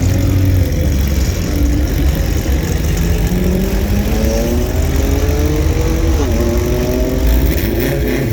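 A car engine accelerating: its pitch climbs steadily for several seconds, drops sharply about six seconds in, then climbs again.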